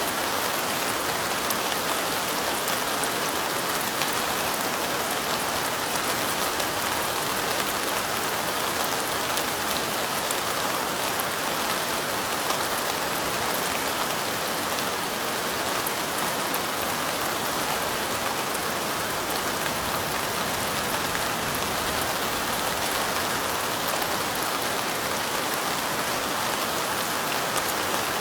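Steady rain falling: an even hiss sprinkled with the fine ticks of individual drops, unchanging throughout.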